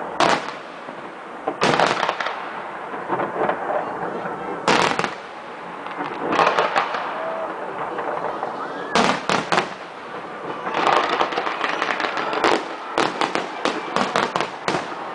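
Fireworks display: shells bursting with sharp bangs every second or two, with crackling between. The bangs come in quick clusters and thicken into a rapid string of bangs in the last few seconds.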